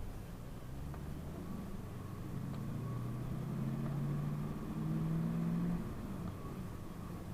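PAZ-32054 bus engine pulling away, its pitch rising steadily for a few seconds, then easing off near the end.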